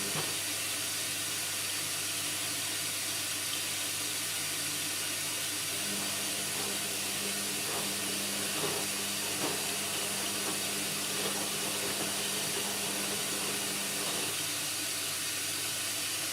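Indesit washing machine with water rushing through it, a steady hiss over a low hum. A second hum drops out at the start and comes back after about six seconds, and there are a couple of faint knocks around the middle.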